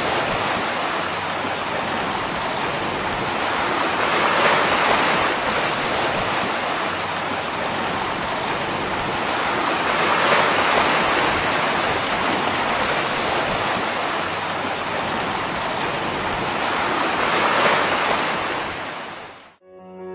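Ocean surf: a steady rush of breaking waves that swells about every six seconds, cutting off suddenly near the end as piano music comes in.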